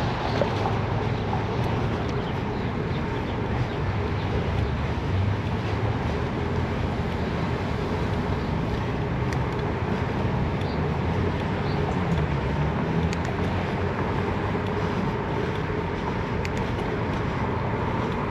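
Steady wind and riding noise on a chest-mounted GoPro while cycling a gravel bike: a continuous low rumble with tyre and traffic hiss over it.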